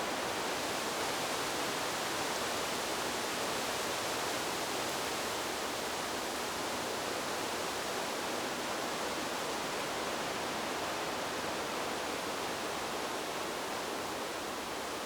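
Steady, even rushing noise with no gusts or swells, spread evenly from low to high pitches.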